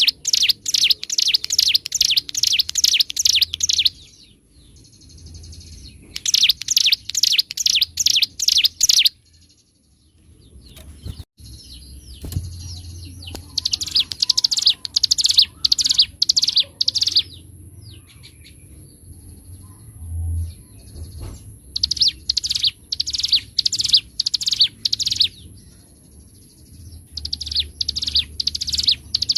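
Ciblek gunung, a prinia, singing in fast trains of sharp repeated notes, several a second, each phrase lasting a few seconds with short pauses between.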